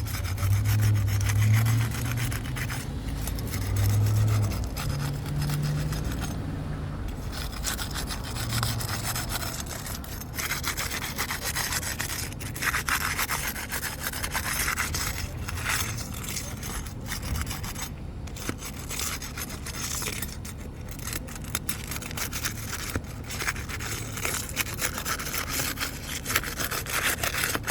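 Crowbar scraping and prying under three-tab asphalt shingles, working them loose and tearing them, with repeated rasping scrapes and clicks throughout.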